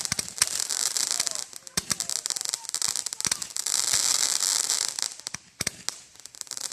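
Consumer fireworks going off: a dense run of crackling pops over a loud hiss, thinning to scattered pops near the end.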